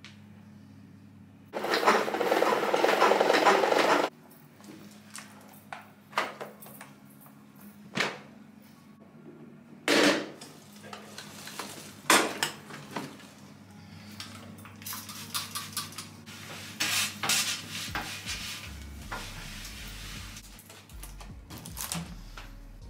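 Dishes and cutlery being handled, with sharp clinks and knocks and a spell of clattering later on. Near the start a steady rushing noise runs for about two seconds.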